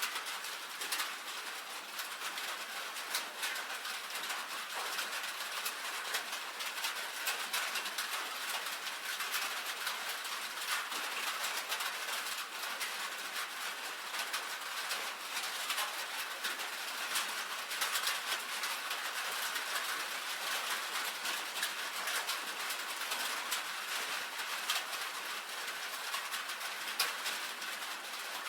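Steady rain pattering on a tin roof: a dense, even hiss of countless individual drop ticks on the metal sheeting.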